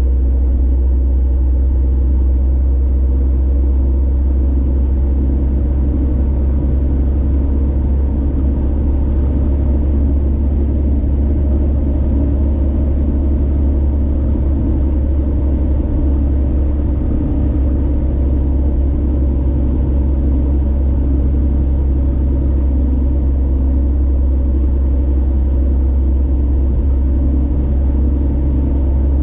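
Steady low drone of a car cruising on a highway, engine and road noise running evenly without change.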